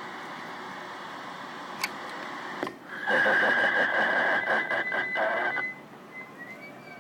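CB radio receiver hissing with channel static; after a click about two seconds in, a station keys up and a loud steady tone over noise comes through for about two and a half seconds, then cuts to a run of short beeps stepping up and down in pitch near the end.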